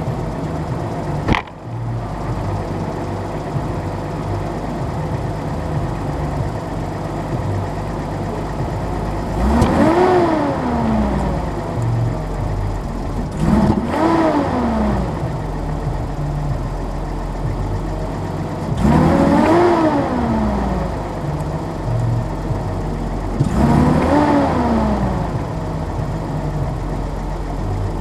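A 1983 Datsun 280ZX Turbo's turbocharged straight-six runs at idle and is revved four times. Each blip rises in pitch and falls back to idle over about two seconds. The engine has a bad idle when cold that is being troubleshot.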